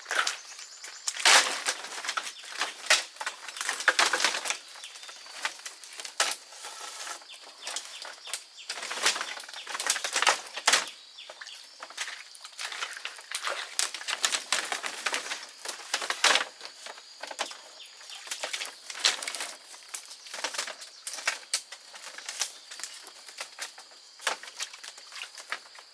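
Irregular rustling and crackling with scattered sharp snaps, loudest in the first few seconds and again around ten seconds in.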